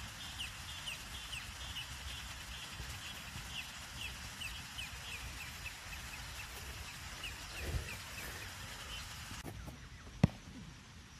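A bird calling over and over in short falling chirps, about two a second, with a low thud about three-quarters of the way through. Near the end the background drops away and a single sharp thump, the loudest sound, is heard.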